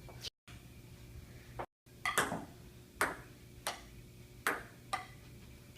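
A series of sharp clicks or taps, about seven, irregularly spaced, each with a short ringing tail, over a faint steady low hum.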